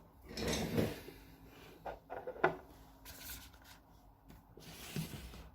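Hands handling small objects: light rubbing and a few short clicks and knocks.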